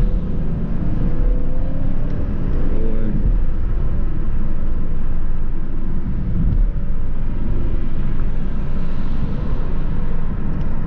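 A 2020 Camaro SS's 6.2-litre V8, heard from inside the cabin, pulling hard from first gear. The engine note rises and drops back at each quick paddle-shift upshift, about three seconds in and again around six and a half seconds in.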